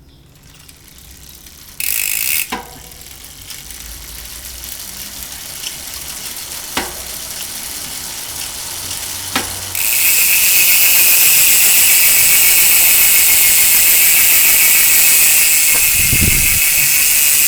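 Face Ace bicycle freehub spinning fast, its pawls ratcheting in a high buzz that grows louder and becomes loud and steady from about ten seconds in, with a few sharp clicks before that. A short low thump comes near the end.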